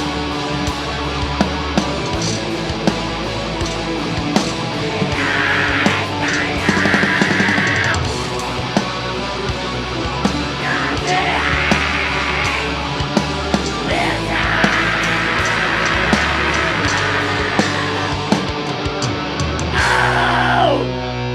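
Live metal band playing: distorted guitars, bass and drums with long screamed vocal passages. Near the end a scream falls away and the full band cuts out.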